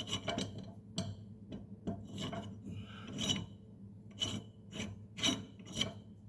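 Metal scraping and clinking in short irregular strokes, about two a second, as a mower blade bolt and its washer are worked and threaded into the deck spindle.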